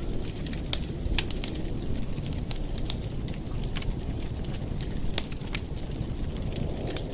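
Campfire burning: wood crackling and popping in sharp, irregular snaps, a few every second, over a steady low rush.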